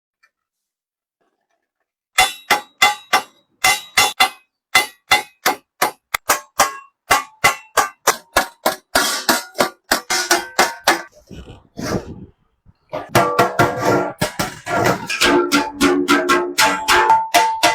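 Hammer strikes on sheet metal, each blow ringing, at about three blows a second; the blows stop briefly, then come faster and closer together near the end.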